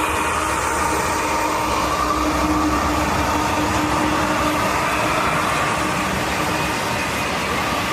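A Norfolk Southern train rolling past: steady noise of wheels on rail, with a faint steady hum.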